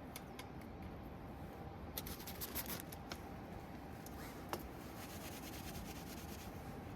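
Rustling and scratching handling noise with a cluster of sharp clicks and crackles about two seconds in, over a steady low rumble.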